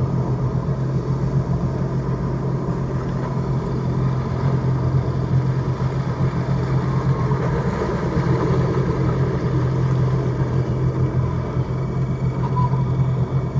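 Jet ski engine running at a steady, unchanging pitch, with the rush of water and wind.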